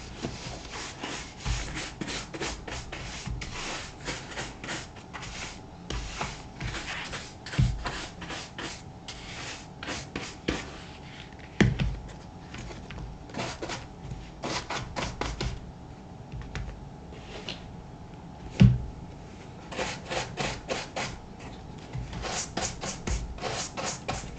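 A brush dusting off a black leather moc-toe boot in quick, scratchy back-and-forth strokes, several a second, with short pauses between runs. Three louder knocks stand out, one near a third of the way in, one about halfway and one about three-quarters of the way through.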